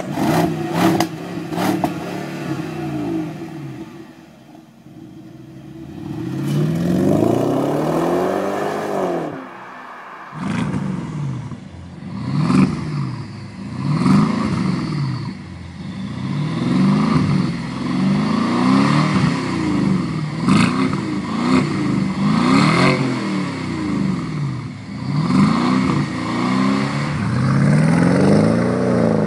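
BMW X6 engine and exhaust being revved again and again, each rev rising and falling in pitch: one longer rev, then about ten seconds in a run of short blips every second or two.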